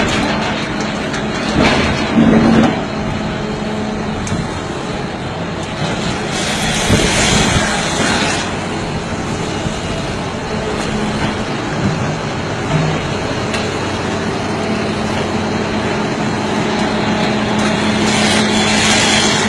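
Heavy diesel machinery running steadily with a constant low hum, with a hissing rush of noise about seven seconds in and again near the end.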